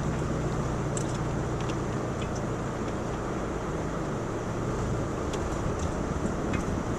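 Subaru Outback driving slowly along a rough dirt road: a steady engine and tyre drone, with scattered small clicks and rattles.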